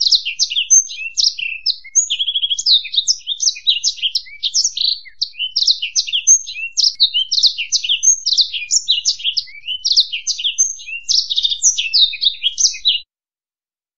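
Finch-type songbird singing a long, rapid, continuous song of high chirps, trills and short whistles, stopping abruptly about a second before the end.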